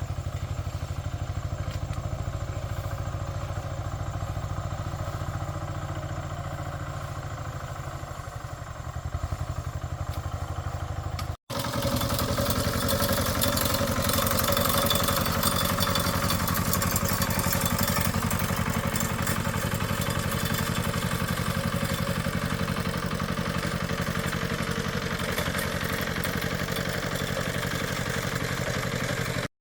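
Small engine running steadily with a fast even pulse. About eleven seconds in it turns louder and brighter.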